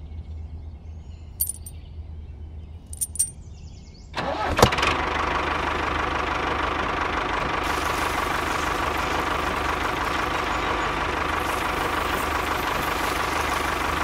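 A few light clicks, then about four seconds in the DIY mini tractor's motor starts with a click and runs steadily with a thin whine as it pulls a roller attachment.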